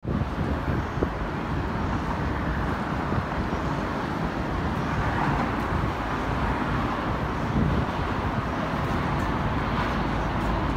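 Steady outdoor road-traffic noise with a continuous low rumble.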